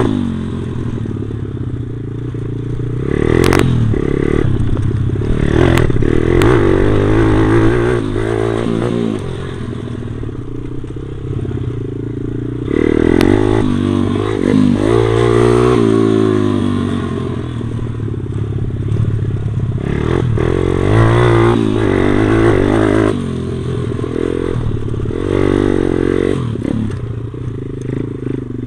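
Stomp pit bike's small single-cylinder four-stroke engine revving up and dropping back again and again as it is ridden, with clattering and scraping throughout and a few sharp knocks in the first several seconds.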